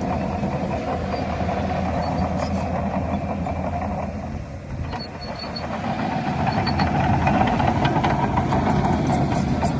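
A heavy diesel earthmoving machine's engine running steadily. It dips briefly about four to five seconds in, then builds louder under load, with scattered clanks and knocks near the end.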